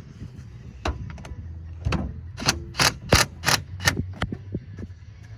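A run of about ten sharp, irregular clicks and clacks from tools and the freed battery cable being handled under the hood of a pickup truck, over a steady low hum.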